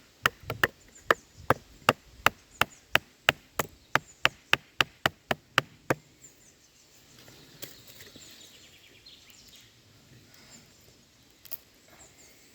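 Rapid, evenly spaced sharp knocks of a Morakniv Robust knife chopping into aged beech wood, about three a second, stopping about six seconds in. After that it is quiet except for faint bird chirps and one more knock near the end.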